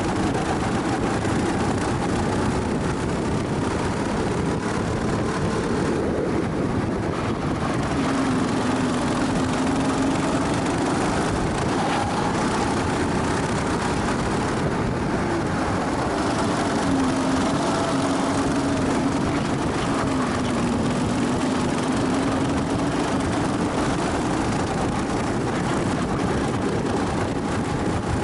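Onboard sound of a racing go-kart's engine running at speed, its note rising and falling over several seconds, under a constant loud rush of wind and road noise.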